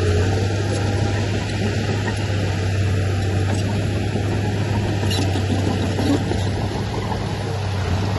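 Heavy diesel engine of earthmoving machinery running steadily at an even pitch, with a low hum and no change in speed.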